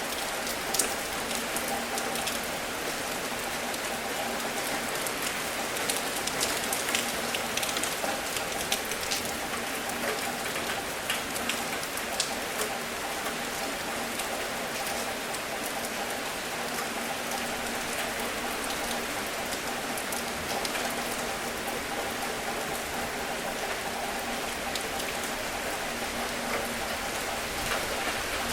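Steady rain falling, with individual drops striking a surface as sharp ticks over the even hiss; the drop hits come thicker for a few seconds in the middle.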